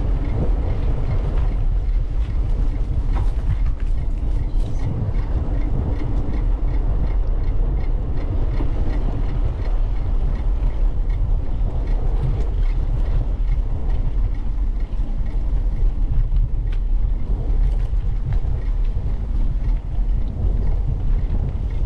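Wind buffeting the microphone of a bike-mounted camera while riding, a loud, steady low rumble. A light, regular ticking, about four ticks a second, runs for several seconds starting about two seconds in.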